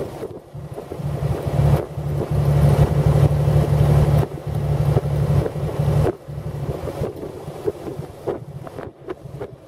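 1917 Buick E-49's six-cylinder overhead-valve engine running under way as a steady low drone, with wind buffeting the microphone in the open car. The engine sound drops back about six seconds in.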